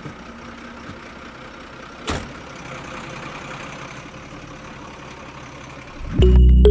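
Steady engine-like running noise with a single knock about two seconds in; music comes in near the end.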